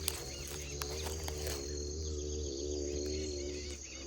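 Rural outdoor ambience at dusk: insects and birds chirping softly over a steady low hum and a faint, wavering droning tone.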